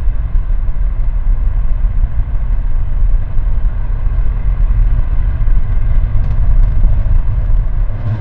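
SpaceX Raptor rocket engine firing in a test: a loud, steady, deep rumble with sharp crackles in the last couple of seconds, starting to die away at the very end.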